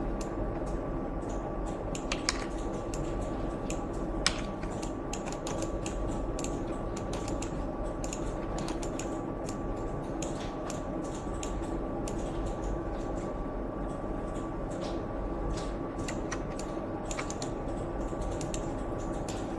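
Irregular clicking of computer keyboard keys over a steady background hum, with two sharper clicks about two and four seconds in.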